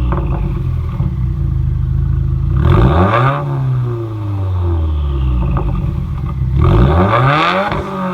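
2016 Subaru WRX turbocharged flat-four, exhaust running through a muffler delete, revved twice, with the revs sinking back slowly after each climb.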